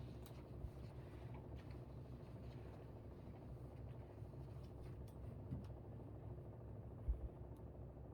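Air conditioner running with a steady low hum and drone. A few light clicks and taps are scattered over it, with a soft low thump about seven seconds in.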